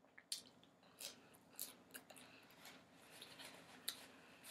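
Faint chewing: scattered short, wet mouth clicks and smacks as a man eats a mouthful of food.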